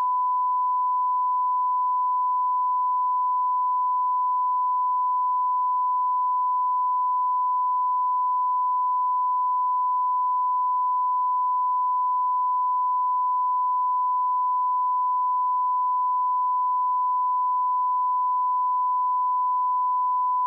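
Steady 1 kHz reference test tone, a single unwavering pure pitch. It is the audio line-up tone of a video master's leader, used to set playback levels.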